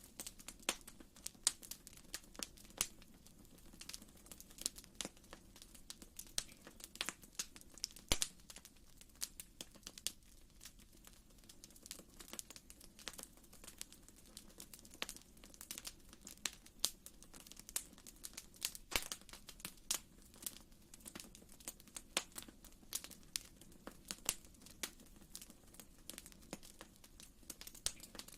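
Wood fire crackling in a fireplace: irregular sharp snaps and pops, several a second, over a faint steady low rumble of the flames.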